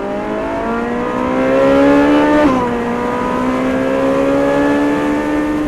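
Ferrari 458 Spider's V8 engine at full throttle, its note rising steadily in pitch. About two and a half seconds in it drops sharply, then climbs again more slowly.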